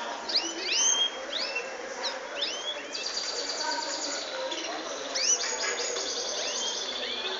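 Many small birds chirping together, overlapping short calls that sweep up and fall away, with a rapid buzzing trill in the middle.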